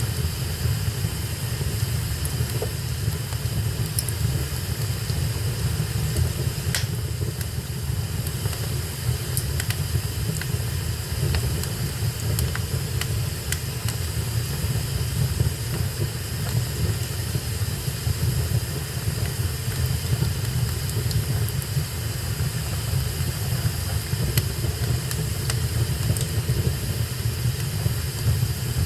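Wood fire burning in a fireplace: a steady low rumble with a hiss, broken by occasional sharp crackles and pops.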